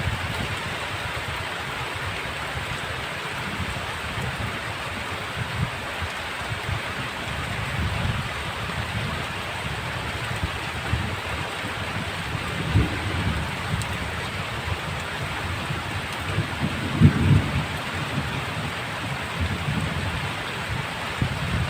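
Heavy rain falling steadily as an even hiss, with irregular low rumbling thuds underneath that are loudest about 17 seconds in.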